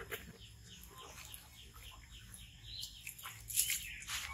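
A bird chirping in a fast, even series of short falling notes, about five a second, which stops near the end. About three and a half seconds in there is a short splash of water.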